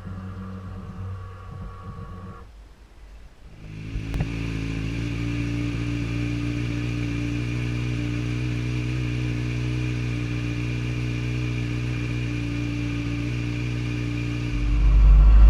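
A 2012 Kawasaki Ninja ZX-6R's inline-four, through an Akrapovic slip-on exhaust, starts up and settles into a steady idle, then begins to rev near the end. Before it starts there is a short, faint steady whir lasting about two seconds, followed by a pause.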